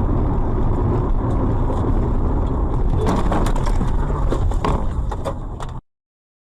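A car driving, heard on a dashcam recording: steady engine and road noise, with a cluster of sharp clicks and knocks about three seconds in. The sound cuts off abruptly near the end.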